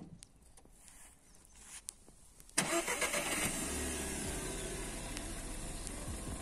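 Volkswagen Touran engine starting suddenly about two and a half seconds in, after a few faint clicks, then idling steadily.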